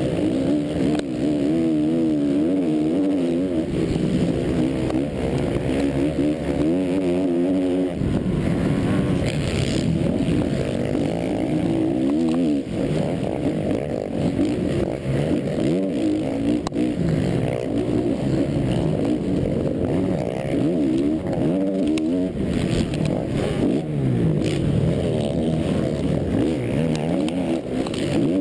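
Motocross bike engine heard from a camera mounted on the bike, revving hard and falling off again and again as the rider works the throttle through the track, under a steady rush of noise.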